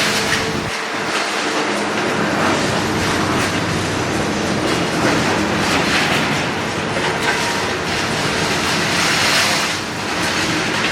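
Demolition excavator running, with a steady, loud clatter and crunch of broken concrete and metal debris.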